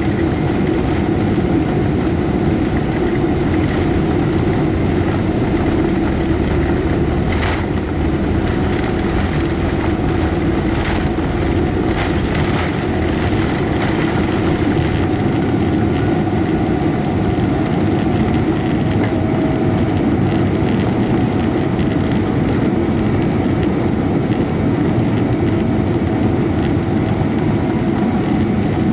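Steady, loud jet engine and airflow noise inside the cabin of a Boeing 777-300ER, its GE90-115B engines running with a faint steady whine over the rumble.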